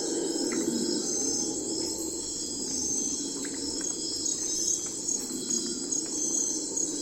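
Night forest ambience of crickets and other insects chirping: a steady high trill with short repeated pulses, over a low steady hum.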